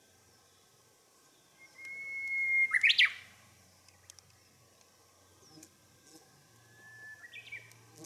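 A songbird singing twice: each song a long held whistle followed by a quick flourish of rising notes, the second song fainter than the first.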